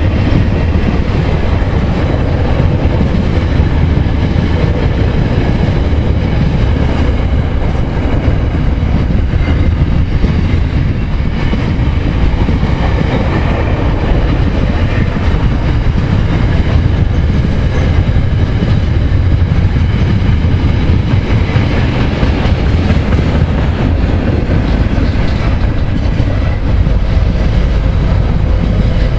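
Freight train's loaded container wagons rolling past: a loud, steady rumble of steel wheels running on the rails, with no let-up.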